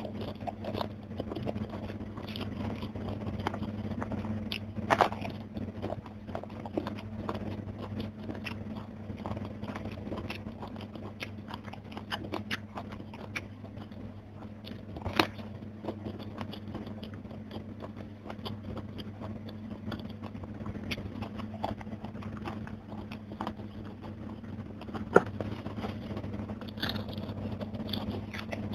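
Close-miked eating: chewing and crunching of crispy fried fish, rice and raw vegetables eaten by hand, with many small mouth clicks and a few sharp loud crunches about 5, 15 and 25 seconds in. A low steady hum runs underneath.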